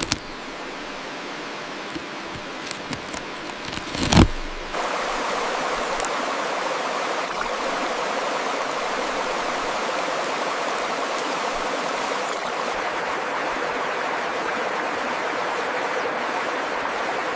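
Steady rush of running water, stepping up louder about five seconds in. A few sharp clicks and a short thump come just before the step.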